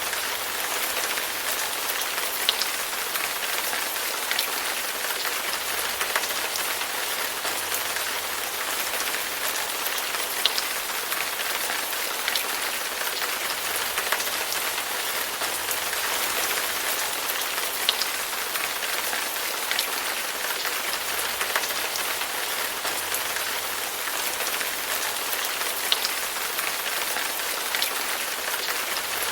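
Steady rain falling on a surface, an even hiss with the odd louder drop ticking through it.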